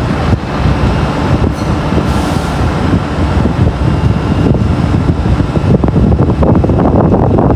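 A train rumbling through the station, a loud steady low rumble with a faint steady whine above it.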